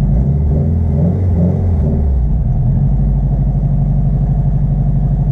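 Turbocharged Honda S2000's freshly swapped F22C 2.2-litre four-cylinder engine running steadily at low revs, its note shifting briefly in the first two seconds.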